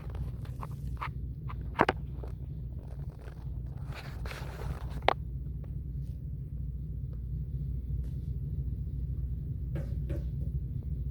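A steady low rumble with a few sharp clicks and knocks, the loudest about two seconds in and about five seconds in, and a short rustle just before the second.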